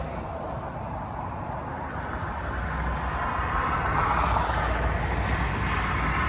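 Motor vehicle on the move: steady engine and road noise that grows somewhat louder about three to four seconds in.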